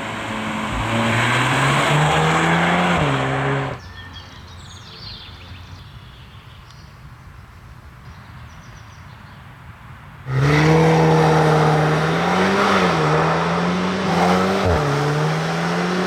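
Audi S3's 2.0-litre turbocharged four-cylinder with Akrapovič exhaust accelerating hard, its pitch rising. It cuts off abruptly about four seconds in to a much quieter stretch, then returns loud about ten seconds in, rising again with brief dips between gears.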